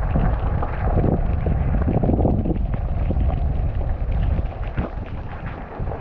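Mountain bike descending a wet, sandy dirt trail: wind buffeting the camera microphone over a steady rumble of tyres, with the bike clattering and knocking over bumps.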